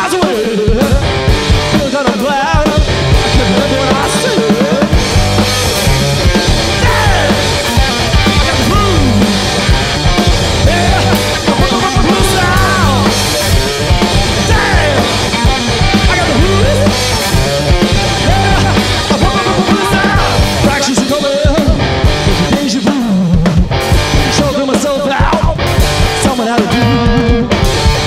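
Live punk-blues rock played loud on electric guitar and drum kit, the guitar bending and sliding in pitch over a steady beat.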